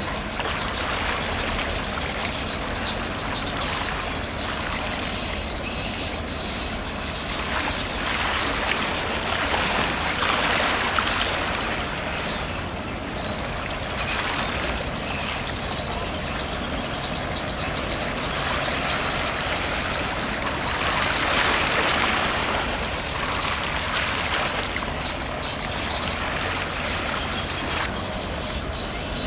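A large container ship passing close by: a steady low engine rumble under a rushing wash of water and air that swells twice, with faint high chirps near the end.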